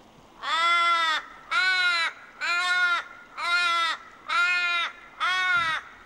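A bird giving six loud, nasal calls about a second apart, each rising and then falling in pitch.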